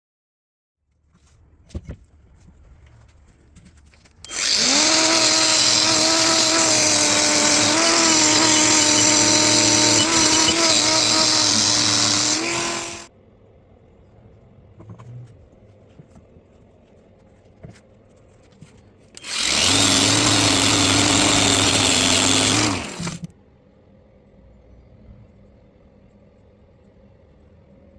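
An electric power tool runs twice at a steady pitch: a long run of about eight seconds, then after a pause a shorter run of about four seconds. Each run starts and stops abruptly.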